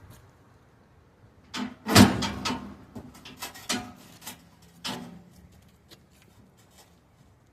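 A series of metal clanks and knocks from heavy steel parts being handled and fitted together. The loudest comes about two seconds in, and a few leave a short ring.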